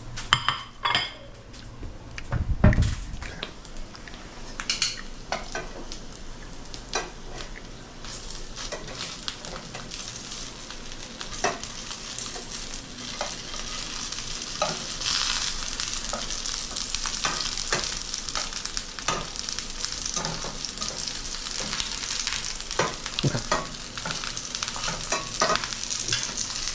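Pork and chive dumplings sizzling as they pan-fry in oil in a nonstick pan, with scattered clicks of metal tongs turning them. A few knocks near the start as a plate is set down on the counter.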